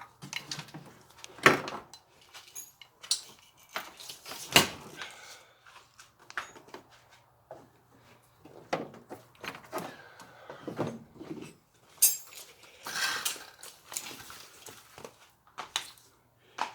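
Irregular clicks, knocks and rattles of a removed car wiring harness being handled, its connectors and attached components clattering. Two sharper knocks come in the first five seconds, and a longer rustling spell comes about twelve seconds in.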